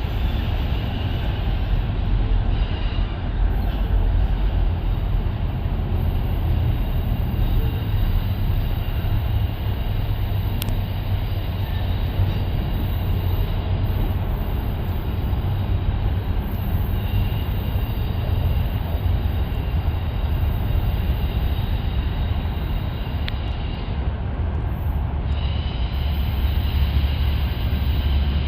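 A train rolling past, a steady low rumble with no break.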